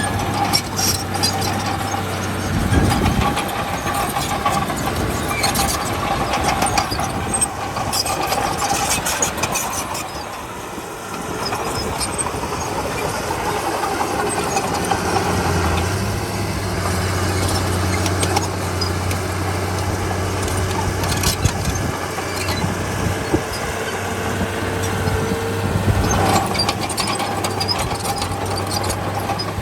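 Heavy diesel earthmoving machinery running steadily, with a low hum and repeated metallic clanks and knocks that come thickest in the first ten seconds and again near the end.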